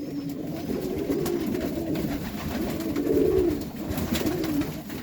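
Domestic pigeons cooing: low, warbling coos that rise and fall in pitch, one after another, easing off briefly near the end.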